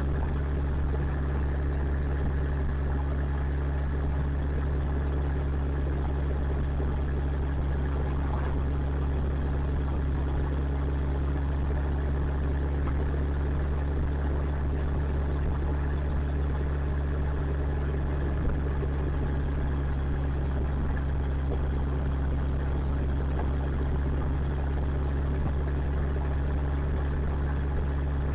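Motorcycle engine running at a steady speed, a constant low drone that holds its pitch throughout.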